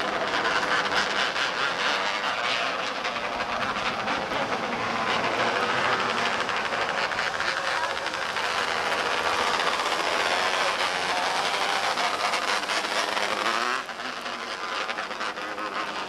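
Small race cars' engines running together on the track, a dense, steady drone of rapid firing with pitch rising and falling as the cars lap, easing somewhat near the end.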